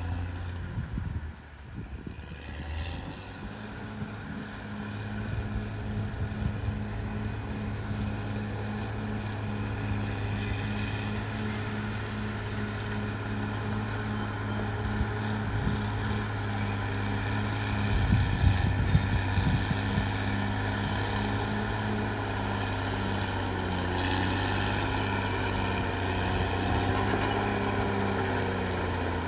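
Caterpillar D6R XL bulldozer's diesel engine running steadily under working load, getting louder a few seconds in. A short burst of clanking and clatter comes about two-thirds of the way through.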